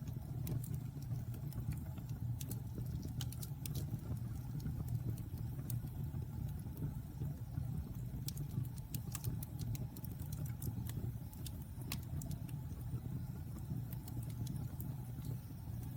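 Fire burning in a fireplace: a steady low rumble with scattered, irregular sharp crackles and pops.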